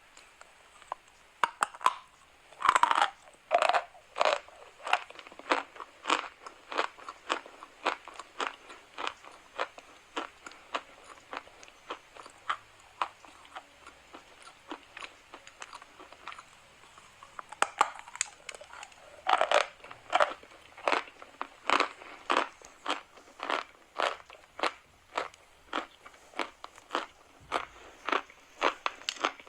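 Chalk being bitten and chewed: a loud crunching bite about three seconds in and another near twenty seconds in, each followed by a steady run of chewing crunches, about two a second.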